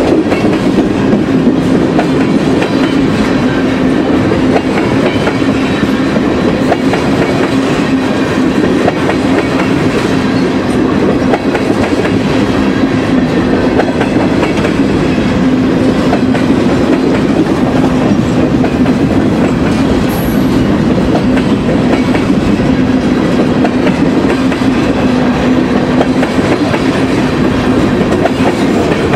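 Freight train of tank cars and boxcars rolling past, loud and steady: steel wheels running on the rails with repeated clicking as the wheels cross rail joints, over a steady low hum.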